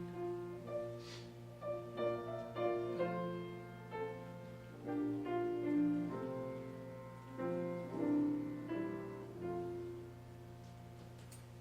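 Piano playing a slow passage of notes and chords, which stops about ten seconds in. A steady low electrical hum runs underneath.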